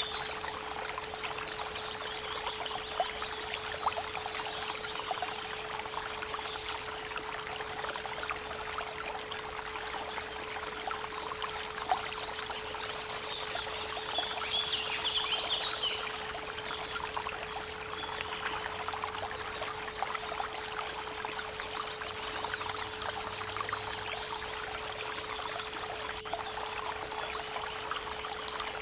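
Creek water running steadily, with songbirds chirping and trilling now and then, under a constant 432 Hz pure tone.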